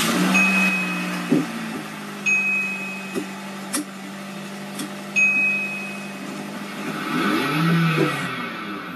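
A manual-transmission car's engine started and then idling steadily, with a few short high beeps and several sharp clicks. Near the end the engine pitch rises and falls as it revs.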